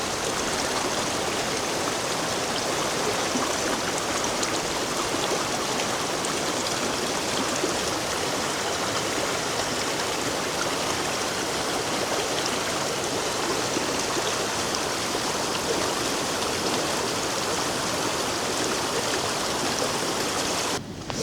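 Steady rushing of a mountain waterfall and stream, stopping suddenly near the end.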